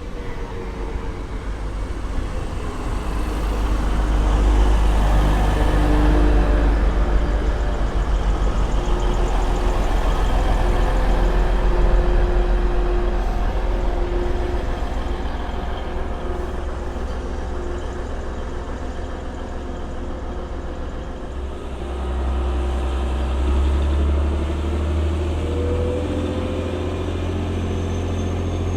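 A diesel train running through the station. There is a heavy low engine rumble with some thin, squealing tones over it. The sound swells about four seconds in, eases, then the engine note steps up again near the end.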